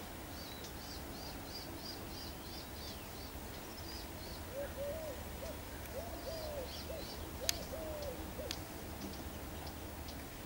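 Wild birds calling: quick series of short, high chirps, and in the middle a run of about six low, pure hooting notes. A single sharp click comes about three-quarters of the way through.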